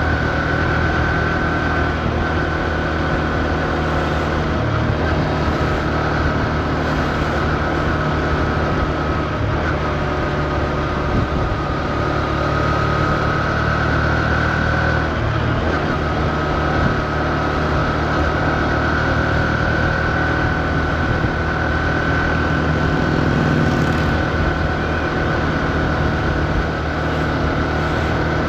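2024 Honda CB125F's air-cooled single-cylinder engine running at steady low revs, with only small shifts in pitch and no hard revving, the engine still being run in.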